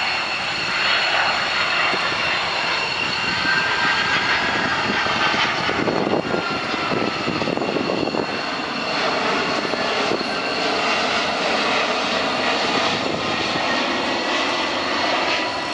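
Twin turbofan engines of a Boeing 767 freighter flying slowly past: a steady jet roar with high whining tones. One tone slides down in pitch about six seconds in, where the sound is fullest.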